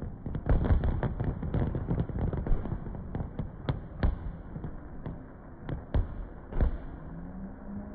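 Fireworks display with aerial shells bursting: a dense run of bangs and crackles that thins out to a few separate loud bangs in the second half.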